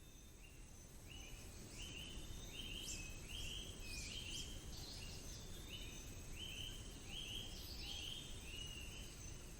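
Quiet forest ambience: a steady series of short high calls, about two a second, over a faint low background hiss, with a few fainter higher chirps among them.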